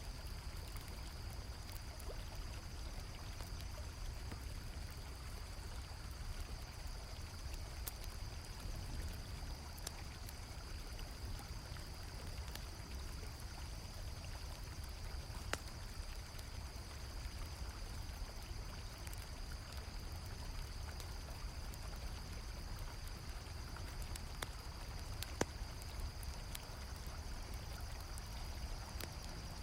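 Steady rush of a flowing river, with a constant high cricket chorus over it and a few sharp campfire crackles and pops scattered through.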